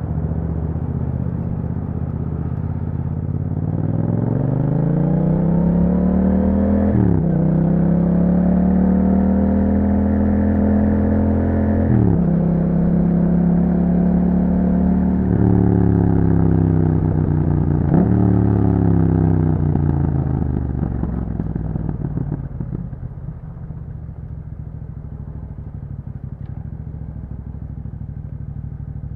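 2021 Yamaha MT-07's 689 cc parallel-twin engine through an Akrapovic exhaust with a dB killer, on the move. It revs up under acceleration through two upshifts, about 7 and 12 seconds in. It then drops back through two downshifts with a rise in revs at each as the bike slows, and settles to a low steady idle for the last few seconds.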